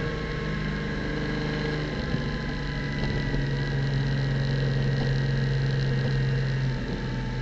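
Porsche Cayman GT4 Clubsport's flat-six engine running at low, steady revs, its note shifting shortly before the end.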